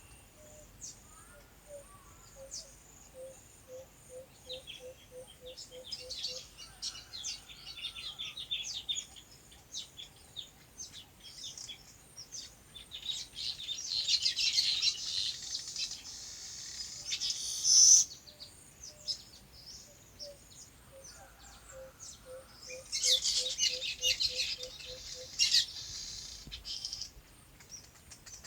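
Small birds chirping and twittering, busiest in the middle and again near the end. Twice there is a run of short low notes repeated about three times a second. A brief louder burst cuts off abruptly about two-thirds of the way through.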